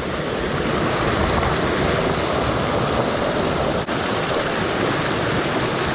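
Steady rushing of fast-flowing rainstorm runoff in a creek.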